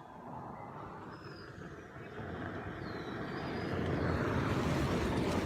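Gas-powered utility vehicle driving, its engine and rolling noise growing steadily louder and peaking near the end.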